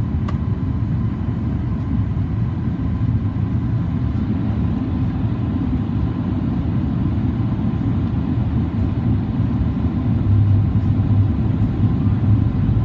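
Steady low cabin rumble of a Boeing 737 MAX 8-200 airliner in flight, heard from inside the cabin: airflow and CFM LEAP-1B engine noise, with a faint steady whine and a single click just after the start. The rumble grows a little louder near the end.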